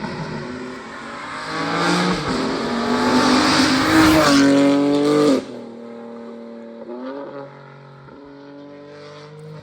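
BMW M4 Competition's twin-turbo straight-six, fitted with aftermarket intakes, downpipes and a tune, accelerating hard with rising pitch through a gear change. About five and a half seconds in the throttle closes suddenly and the engine drops to a quieter, steady drone.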